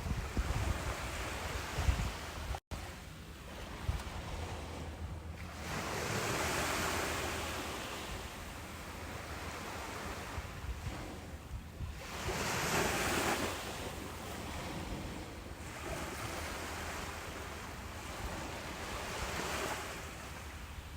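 Ocean surf washing onto a beach, a steady hiss that swells three times as waves break and recede. There is a split-second dropout in the sound about two and a half seconds in.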